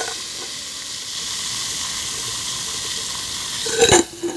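A dissolving bath bomb fizzing in water, a steady high hiss. About four seconds in, a quick cluster of loud knocks and clatter breaks in as the container is handled.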